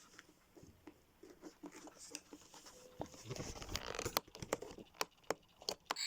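Scattered light clicks and knocks with some rustling: a battery bird clock being handled and fiddled with.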